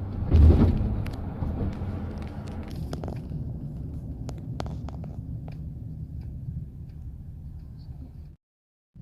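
A low, steady rumble like a vehicle on the move, with scattered faint clicks, opening with a loud knock; it cuts off abruptly near the end.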